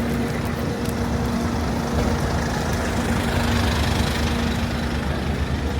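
Bus engine running as a bus manoeuvres into its stand, a steady low rumble with a hum that stops near the end.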